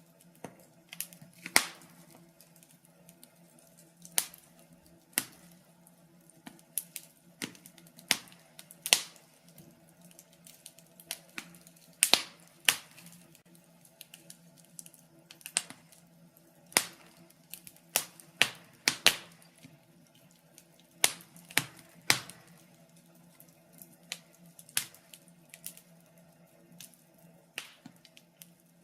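Wood logs burning in a fireplace, crackling with irregular sharp pops and snaps, a few louder ones near the middle. A faint steady low hum lies underneath.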